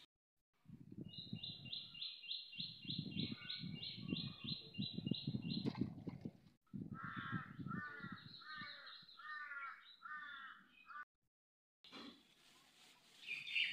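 Birds calling outdoors: a fast run of short high chirps, about three or four a second, then five repeated harsher calls, over bursts of low rumbling noise. The sound cuts out briefly a few times.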